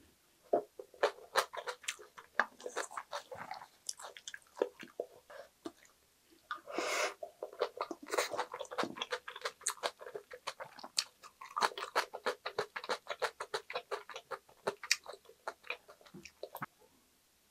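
Close-up chewing of a mouthful of yeolmu kimchi bibimbap: rapid crunchy bites of young radish kimchi and wet mouth clicks, several a second. A brief louder rush of noise comes about seven seconds in, and the chewing dies away just before the end.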